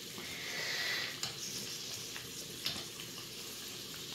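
Naan coated with gram-flour (besan) batter and potato slices frying in hot oil in a pan, a steady sizzle. A few light clicks of metal tongs against the pan.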